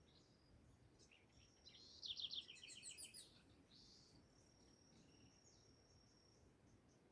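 Wild birds singing faintly at dawn: a quick series of high chirps about two seconds in, then a thin, high, steady whistle through the later part.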